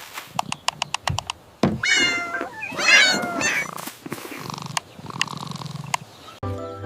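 A cat meowing twice, about two and three seconds in, each call sliding in pitch. A quick series of sharp clicks comes before them, and music comes in near the end.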